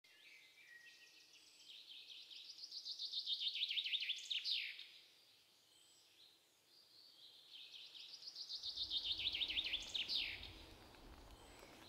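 A songbird singing two phrases a few seconds apart, each a quick run of high notes that grows louder and ends in a downward flourish.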